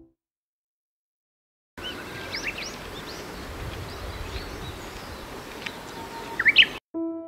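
Small birds chirping in quick, varied calls over a steady outdoor hiss, starting after a short silence and stopping abruptly near the end. A few piano notes follow.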